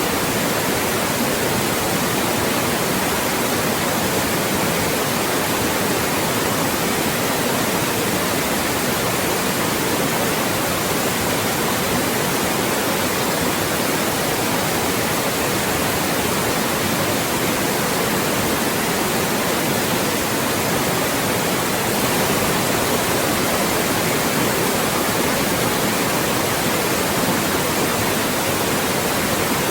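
Loud steady white noise: an even hiss across the whole range with no change in level, generated to mask speech.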